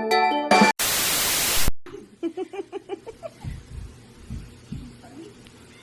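A loud burst of static hiss lasting about a second, cutting off abruptly, followed by faint room sound with a few soft thumps.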